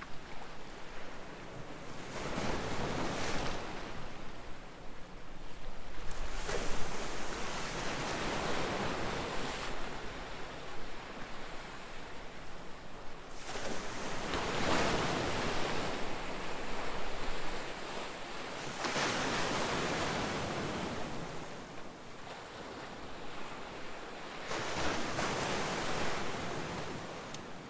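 Ocean waves breaking and washing up the shore, one surge after another every few seconds, with some wind noise on the microphone.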